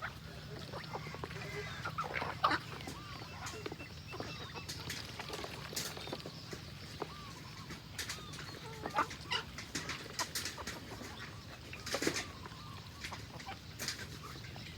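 Farmyard poultry calling: many short, scattered clucks and calls from a mixed flock, with a few sharp clicks among them over a steady low hum.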